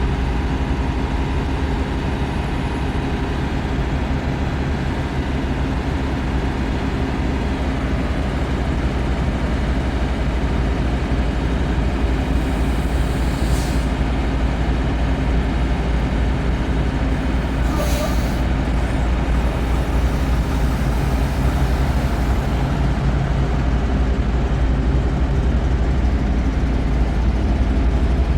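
Tractor-trailer truck running down the road, a steady engine drone with road noise, interrupted twice by brief high noises, about 13 and 18 seconds in.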